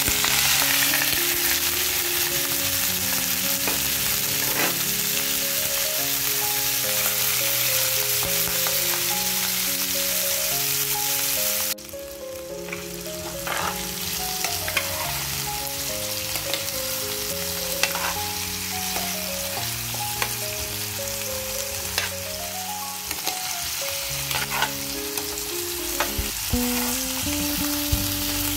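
Chicken pieces sizzling loudly in hot oil the moment they go into the pan, with the clicks and scrapes of a metal spatula stirring them. The sizzle dips sharply about twelve seconds in, then carries on slightly quieter.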